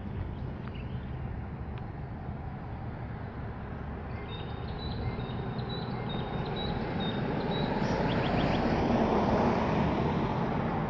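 A vehicle passing by: road noise builds through the middle, is loudest about nine seconds in, then starts to fade. A bird gives a run of short high chirps partway through.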